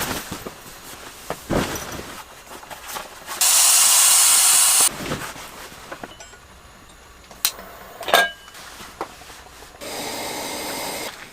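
A loud, steady hiss of air or gas lasting about a second and a half, starting about three and a half seconds in. A quieter hiss follows near the end, with scattered clicks and knocks in between.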